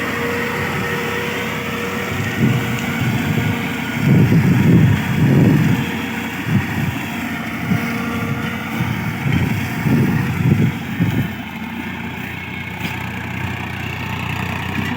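Tractor engine running steadily while driving a tractor-mounted mulcher, with irregular loud low rumbling surges through the middle stretch before it settles back to a steady hum.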